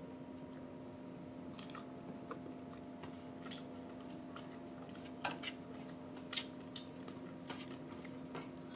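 A person chewing food, with scattered small wet clicks and smacks and one sharper click about five seconds in. A steady low hum runs underneath.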